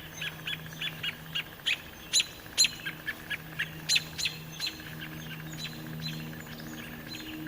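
Northern mockingbird giving repeated harsh alarm calls, short sharp notes about three a second, loud at first and fading after about four to five seconds. A steady low hum runs underneath.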